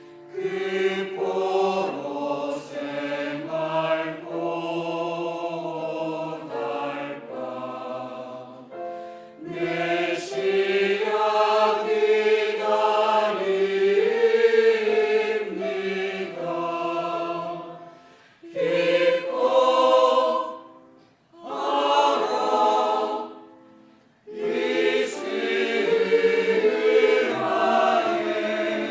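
Church choir singing a Christmas cantata number, in sustained phrases with a few short pauses between them in the second half.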